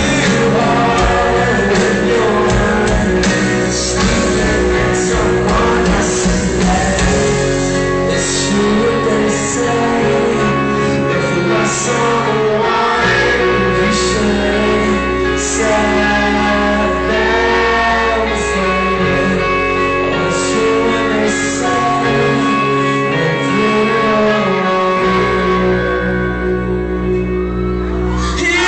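Rock band playing, a male voice singing over guitars and a steady low bass, sounding amplified in a large hall.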